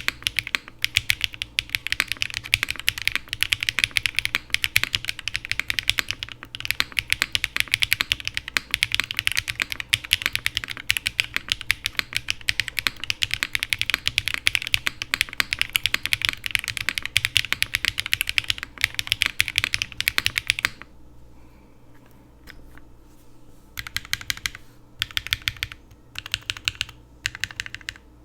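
Mechanical keyboard fitted with factory-lubed Keygeek MZ Y1X linear switches, typed on fast and without a break. About three-quarters of the way through the typing stops, then comes back in a few short bursts of keystrokes.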